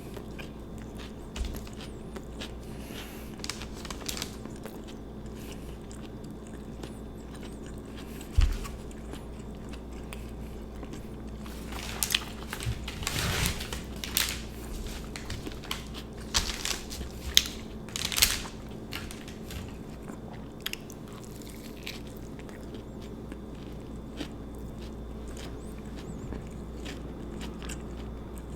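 Close-miked chewing and biting of an Italian sub sandwich: soft wet mouth sounds and crunches, with a run of louder crunchy bites from about twelve to nineteen seconds in. A steady low hum sits underneath.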